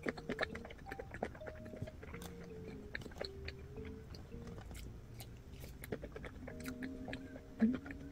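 A person chewing a mouthful of blueberry cream-filled bagel, with many small mouth clicks throughout.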